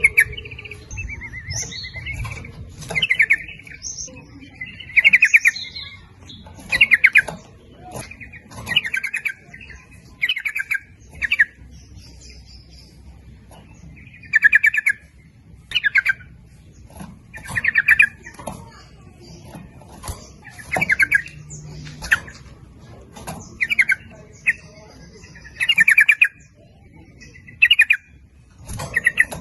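Sooty-headed bulbul (trucuk) singing short, bubbly chirped phrases, one every second or two, in a lively back-and-forth run of calls.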